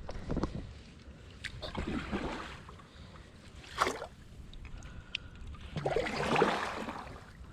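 Kayak paddle strokes in lake water: several splashy swishes about two seconds apart, with a sharper splash or knock near the middle.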